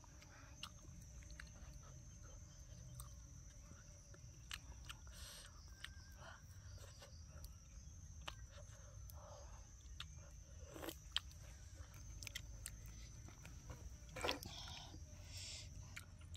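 A person eating close to the microphone: soft chewing with scattered wet mouth clicks and lip smacks, two sharper clicks in the second half.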